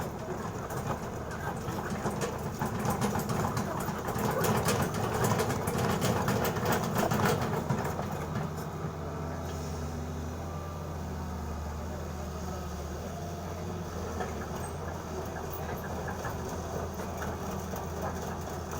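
Excavator's diesel engine running, with rapid clattering and clanking over the first eight seconds or so, then settling to a steadier low engine hum.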